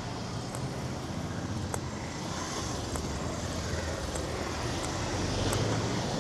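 Street traffic: a motor vehicle engine running with steady road noise, growing a little louder about five seconds in as it draws near.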